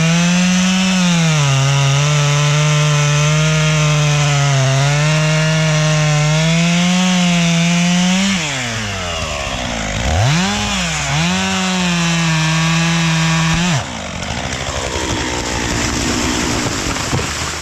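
Chainsaw cutting into a tree trunk under load, its engine pitch sagging and recovering as the chain bites. About eight seconds in the revs drop, it is revved up twice and held, then it falls back to a low run near the end, with scattered snapping sounds.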